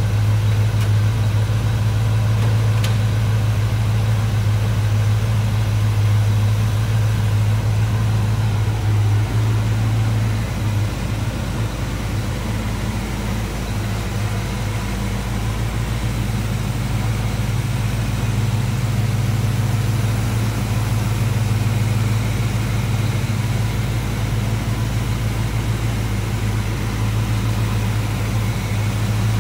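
The 1972 Chevrolet Monte Carlo's 350 cubic-inch four-barrel V8 idling steadily, a little quieter from about ten seconds in.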